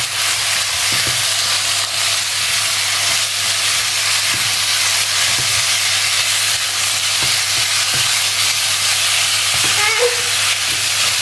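Boneless chicken cubes sizzling in hot oil in a nonstick pan, as a steady hiss. A spatula stirs and scrapes them, with a few faint knocks now and then.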